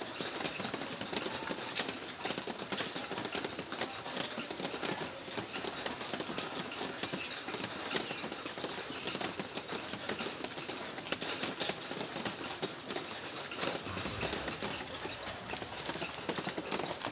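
Steady rain falling, with many close drops ticking sharply on hard surfaces.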